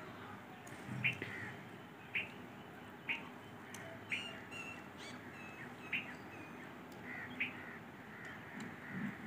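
Birds chirping: short, high calls about once a second, with a few higher chirps near the middle.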